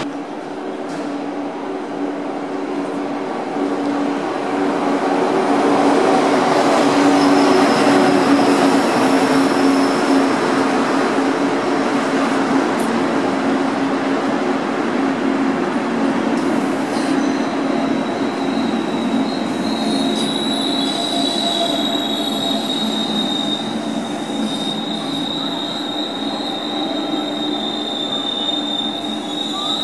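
A Deutsche Bahn ICE high-speed electric train running slowly into a station platform, with a steady rumble and a low motor hum. A little past halfway, a high steady squeal sets in as the train brakes to a stop.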